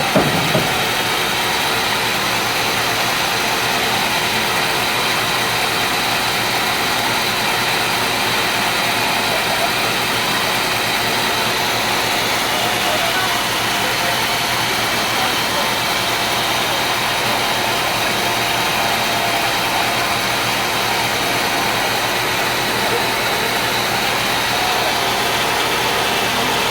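Engine-driven sawmill running steadily, a constant machine noise that holds level throughout, with a short knock right at the start.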